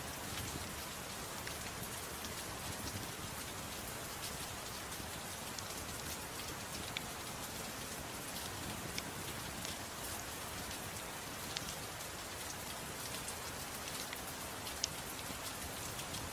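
Steady soft rain hiss with scattered sharp crackles and pops, in a mix of rain and a crackling fireplace.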